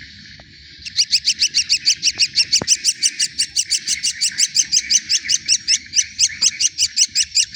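Young cage birds chirping: after a softer start, a fast, even run of short high chirps at about five a second sets in about a second in and keeps going.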